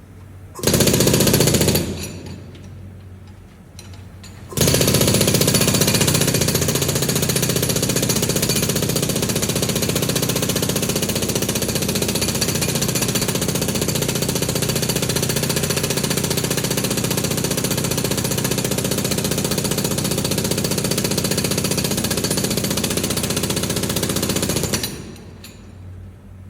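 Pneumatic jackhammer run off an air compressor, breaking concrete: a short burst of hammering about a second in, then a long steady run of rapid blows lasting about twenty seconds that stops near the end.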